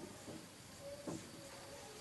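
Faint handling sounds of paper and plastic being worked by hand, with light taps and one louder knock about a second in.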